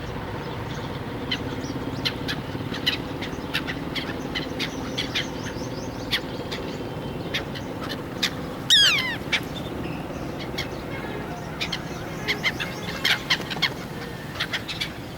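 A large flock of birds calling: many short, scattered chirps and calls, with one louder call falling in pitch about nine seconds in. A faint steady hum runs underneath.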